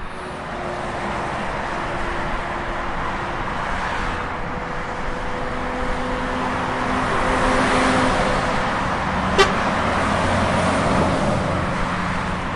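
Car sound effect: steady engine and road noise that swells slightly, with a few faint held tones and a single sharp click about nine seconds in.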